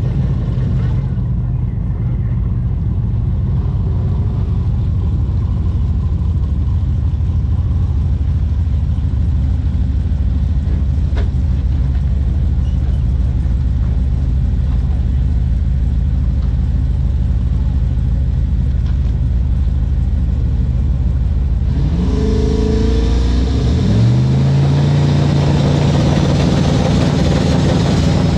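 Turbocharged LS V8 pickup trucks running with a steady low rumble, then revving about 22 seconds in, the engine pitch climbing as they accelerate.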